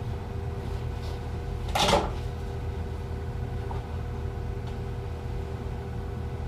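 A single short clunk about two seconds in, like a cabinet door or panel being handled, over a steady low mechanical hum.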